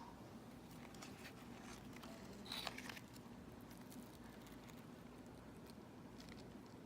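Near silence with faint light clicks and a brief rustle about two and a half seconds in: small handling noises.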